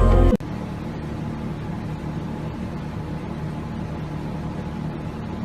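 A steady low hum with an even hiss, as of a running motor or appliance, after music cuts off abruptly just at the start.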